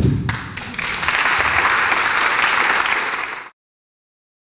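Theatre audience applauding, the clapping swelling about a second in and then cutting off abruptly about three and a half seconds in.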